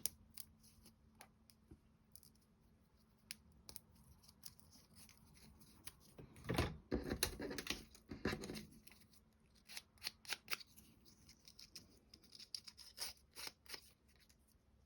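Small wooden clock-kit parts being handled and fitted: light clicks and taps, with a longer rasping, scraping bout about six to eight seconds in.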